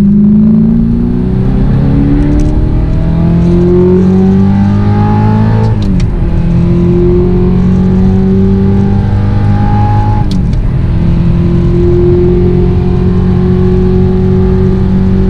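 Audi R8's V8 through an Armytrix titanium exhaust, pulling hard under full throttle: the revs climb steadily, drop sharply at two upshifts about six and ten seconds in, then climb again in the next gear.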